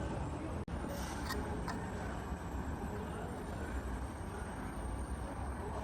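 Steady low machinery rumble in a workshop, with a few faint clicks; the sound drops out for an instant about two-thirds of a second in.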